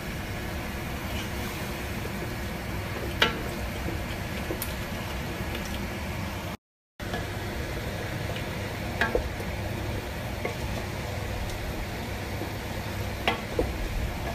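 A pot of meat curry cooking on the hob, with a steady sizzling and bubbling hiss and a few sharp clicks. The sound cuts out briefly about halfway, then carrot wedges and meat carry on sizzling in the pan.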